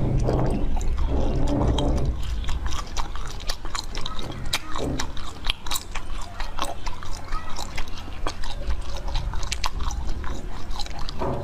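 Close-miked biting and chewing of black corn on the cob: many short, sharp clicks and crunches of kernels being bitten off and chewed.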